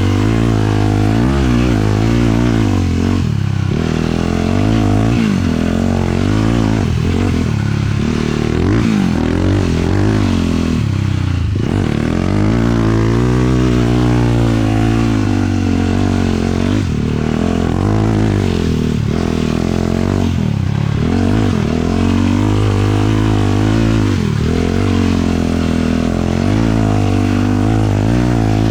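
A 450cc single-cylinder sport quad engine riding hard, its revs rising and falling again and again as the throttle is worked.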